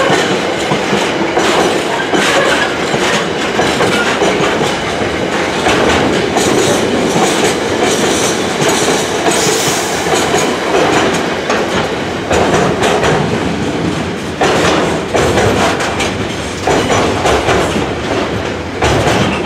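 Container wagons of a freight train rolling past at close range: loud, steady wheel-on-rail noise with a clattering clickety-clack from the wheelsets. From about halfway the noise dips briefly every couple of seconds.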